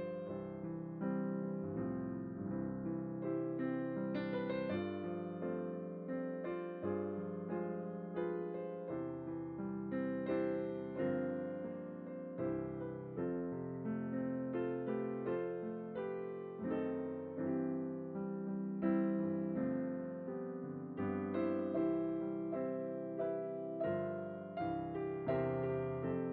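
Background piano music: gentle keyboard notes and chords played one after another, each struck and then fading.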